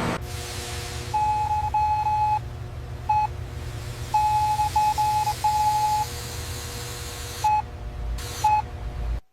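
Electronic beeps at one steady mid pitch over a steady low hum: a long beep, a short one, a longer broken run, then two short beeps near the end. The sound cuts off abruptly just before the end.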